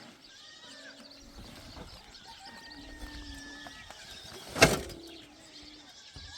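A single sharp knock about four and a half seconds in, over faint calls of animals, likely sheep or goats, in the open air.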